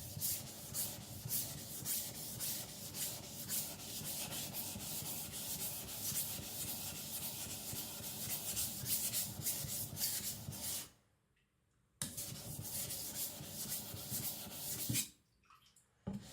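Steel blade of a Victorinox Chinese cleaver scraping back and forth across a wet whetstone in rapid, regular strokes, thinning the blade flat on the stone. The grinding stops twice for a second or so, near the middle and near the end.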